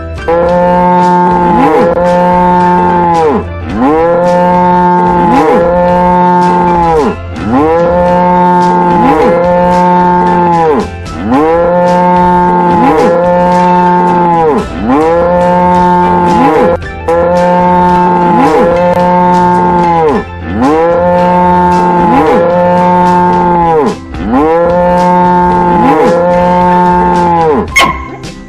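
Cow mooing over and over: long, low calls of about a second and a half each, the same call repeated back to back.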